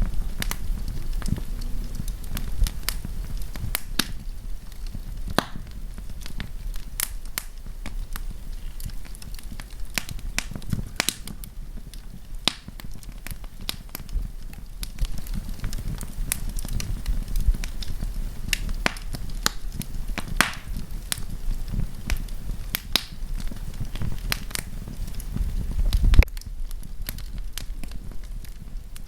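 Wood campfire crackling: irregular sharp snaps and pops over a steady low rumble, with one louder pop near the end.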